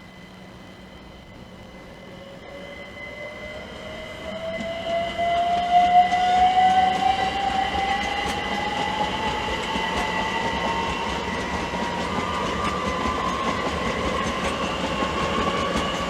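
Class 387 Electrostar electric multiple unit accelerating away: its traction motors whine in a tone that rises steadily in pitch over a steady rolling noise. It grows louder over the first five seconds, then holds.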